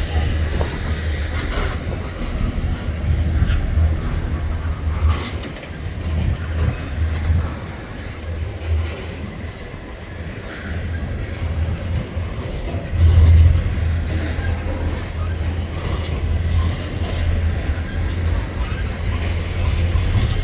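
Freight train cars rolling past with a continuous low rumble that swells and fades, loudest about 13 seconds in, with a few faint clacks.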